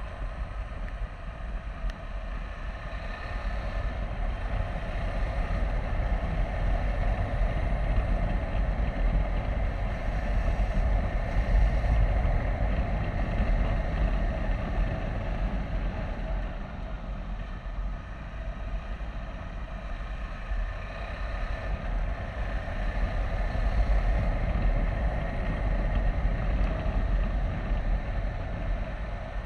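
KTM 390 Adventure's single-cylinder engine running at road speed, with wind noise over the microphone; the level swells and eases a little as the throttle changes.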